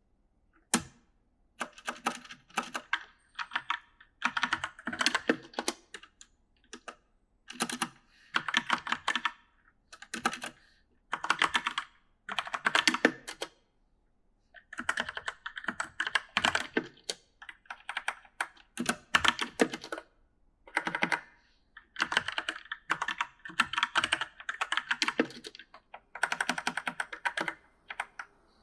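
Typing on an E-Element mechanical gaming keyboard: runs of rapid, uneven keystroke clicks in bursts of one to two seconds, broken by short pauses. A single sharp keystroke comes less than a second in.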